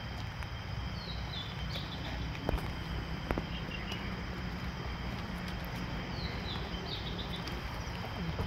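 Outdoor ambience with a bird calling twice, each time a short run of falling high notes, once about a second in and again about six seconds in. Under it runs a steady low rumble, and two sharp clicks come a few seconds in.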